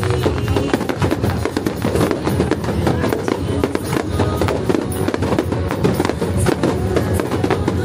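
Fireworks crackling and popping in rapid succession over loud music.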